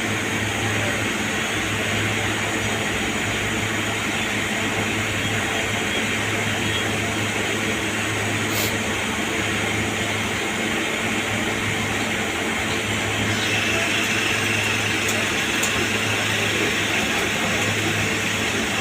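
CNC lathe running with a steady machine hum and whir. A faint high whine comes in about two-thirds of the way through, with a few light ticks.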